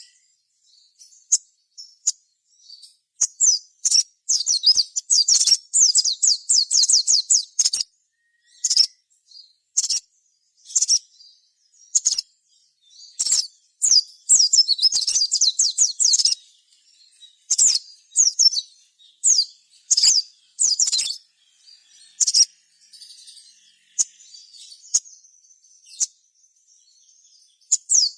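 Crimson sunbird (sogon) singing: sharp, high, thin chirps, breaking twice into long runs of rapid trilling, about four seconds in and again around fourteen seconds in.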